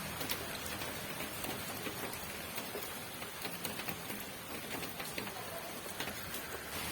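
Rain falling steadily, a constant hiss with many individual drops ticking sharply on a hard surface.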